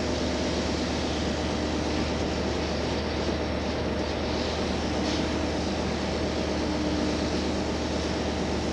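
Cabin running sound of a JR Hokkaido H100 diesel-electric railcar under way: a steady rumble of engine and wheels on rail. A faint steady tone drops out for a few seconds in the middle, then returns.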